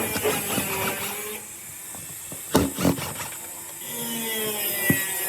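Two sharp knocks, then the steady whine of a small motor or power tool.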